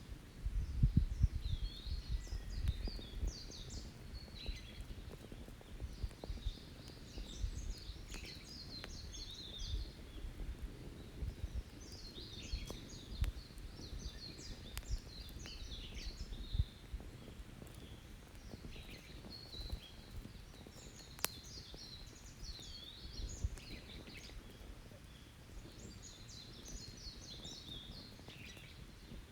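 A songbird singing short, quick warbled phrases, repeated every five seconds or so. Under it runs a low uneven rumble with a few sharp cracks from an open wood campfire.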